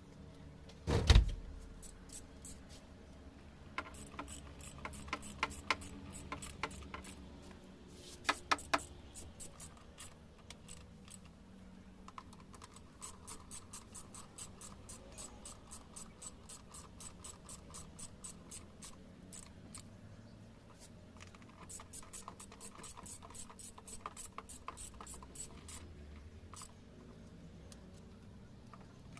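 Hand tools working on engine parts: a knock about a second in, then a long series of small sharp clicks, partly in even runs of two to three a second, like a ratchet being worked back and forth.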